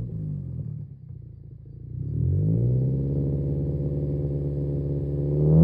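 Subaru Legacy B4 (BL5) flat-four engine through a one-off exhaust with a 150 mm outlet. Its revs fall away to a low, quieter idle, climb again about two seconds in and hold steady at a raised speed, then rise sharply at the very end.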